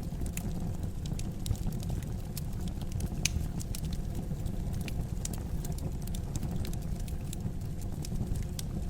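Wood fire in a fireplace crackling: frequent sharp pops and snaps, one louder crack about three seconds in, over a steady low rumble of flames.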